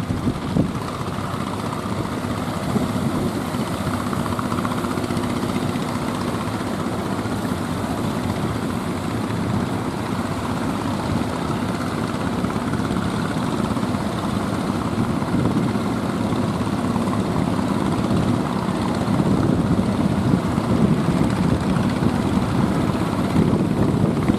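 Motor ship's engine running steadily, a low drone with a rushing noise over it, growing a little louder near the end.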